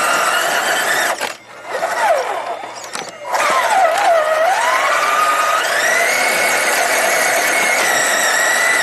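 Whine of a radio-controlled scale trail truck's electric motor and gearbox, its pitch rising and falling with the throttle. It drops out briefly twice, then holds a steady high pitch for the last few seconds.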